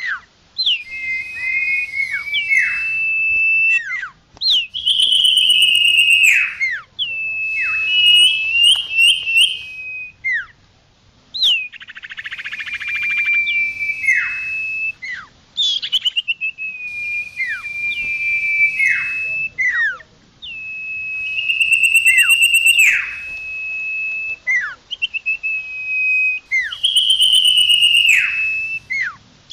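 Common iora (cipoh) singing. It gives long, held, clear whistled notes, each ending in a quick downward slur, with quick chattering notes mixed in. The phrases repeat every couple of seconds with short pauses.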